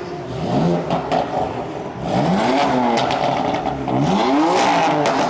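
A car engine being revved in short blips, its pitch climbing and dropping back about three times and getting louder partway through.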